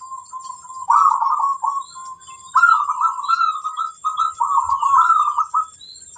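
Zebra dove (perkutut) cooing: three rapid, bubbling coo phrases in quick succession, with short single low notes between them. A steady faint high-pitched tone and a few small chirps sit underneath.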